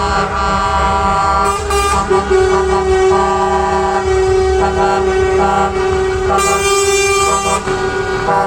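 Several truck air horns sounding together in overlapping chords, one long steady note held for about six seconds, over the low rumble of passing truck engines. A short hiss comes in about six and a half seconds in.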